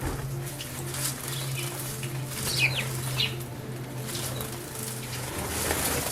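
Eurasian tree sparrows bathing in a bird bath, fluttering their wings and splashing in repeated short flurries. There are a couple of brief chirps about halfway through.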